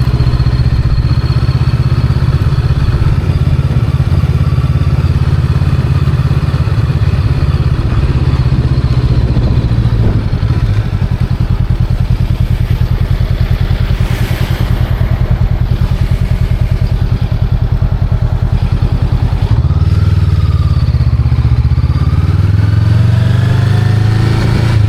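Honda Rebel 500's parallel-twin engine running under way. It eases off through the middle, then about twenty seconds in grows louder again, its pitch climbing twice as the bike accelerates.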